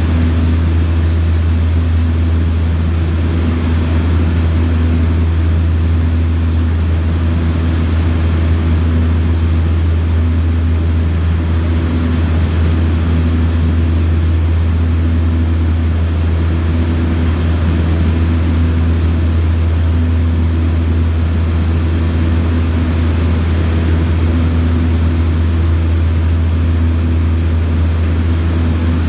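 Propeller aircraft engines droning steadily: a loud, low hum with a higher tone that swells and fades every second or two.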